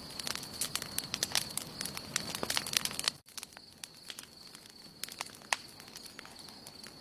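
Wood campfire burning, with frequent sharp crackles and pops over a soft hiss and a faint steady high tone. About three seconds in, the sound cuts out for an instant and comes back quieter, with sparser pops.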